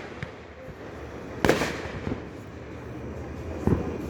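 Fireworks going off: one loud bang about a second and a half in, trailing off briefly, and a smaller bang near the end.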